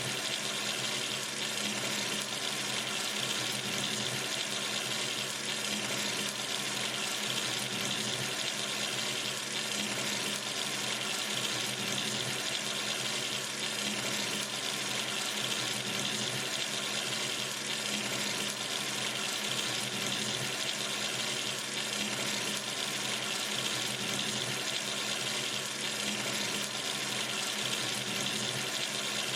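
Kitchen or bathroom sink tap running steadily, the stream of water splashing into the basin with an even, unchanging hiss.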